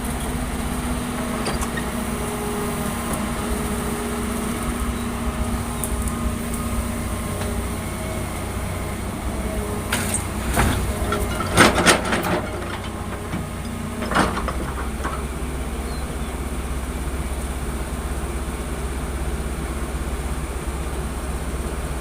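Heavy diesel engine running steadily. A cluster of loud knocks and clatters comes about ten to twelve seconds in, and a single one near fourteen seconds.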